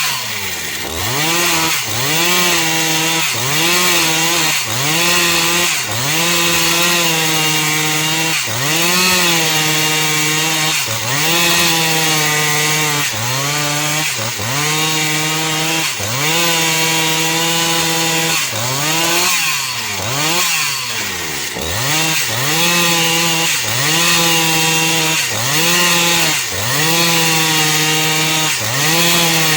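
Two-stroke chainsaw cutting the outer slab off a eucalyptus log. It runs at high revs, with the engine pitch dipping and recovering about every two seconds as the chain bogs in the wood.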